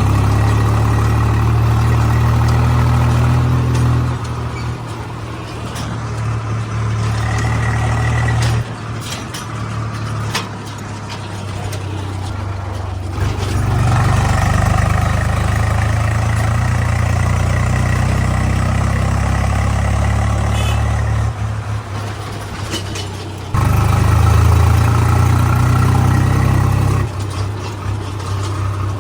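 Heavy diesel machinery engine running with a steady low drone, in several pieces joined by sudden jumps in level and tone.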